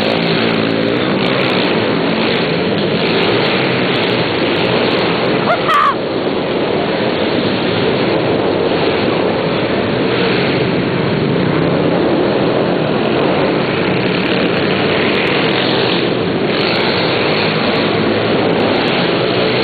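Small single-cylinder pit bike engine, fitted with an 88 kit, running hard as it is ridden, its pitch rising and falling with the throttle. A short rising whine comes about six seconds in.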